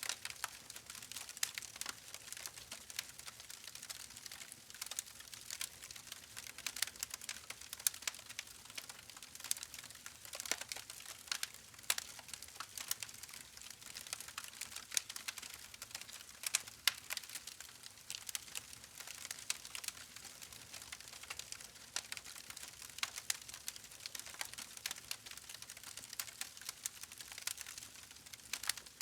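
Campfire crackling: a continuous stream of small irregular pops and snaps from burning wood over a soft hiss.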